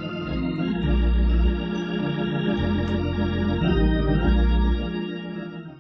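Background organ music, Hammond-style, with sustained chords over deep bass notes, fading out at the end.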